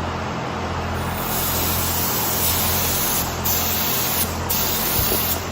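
Paint spray gun hissing as it sprays paint. The hiss starts about a second in and breaks off briefly three times between passes, over a steady low hum.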